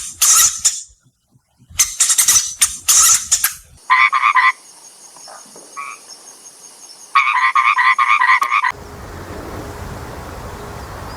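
Frogs croaking in rapid rattling pulse trains, with two longer pulsed croaking calls in the middle. About three-quarters of the way through the calls stop abruptly, giving way to a steady background hiss.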